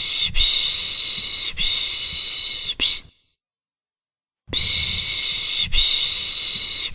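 A person shushing to lull a baby with the Turkish 'piş piş' sound: long hissing 'shh' strokes of about a second each, in runs of three or four. A pause of about a second and a half comes near the middle before the next run starts.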